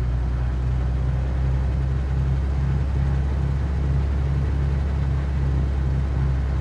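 Cessna 182Q's six-cylinder Continental O-470 engine and propeller droning steadily in flight, heard from inside the cabin, with a slow, even throb about once a second.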